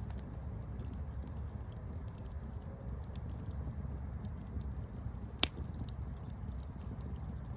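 Campfire burning with a steady low rumble and scattered small crackles and pops from the burning wood, one sharp pop standing out about five and a half seconds in.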